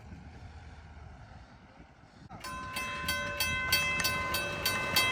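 Level-crossing warning bell starting up suddenly about two seconds in and ringing in rapid, evenly spaced strokes, about three or four a second: the crossing signals activating for an approaching train.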